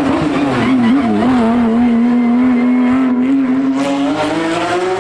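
Race car engine running hard at high revs: its pitch dips and wobbles in the first second, holds steady for about three seconds, then starts rising again near the end.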